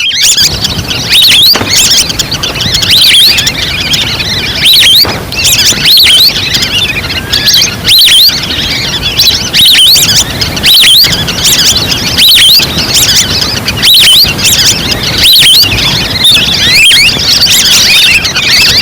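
Recorded calls of a flock of wild ducks played as a hunting lure: many overlapping high whistled notes that rise and fall, coming in loud clusters every second or two.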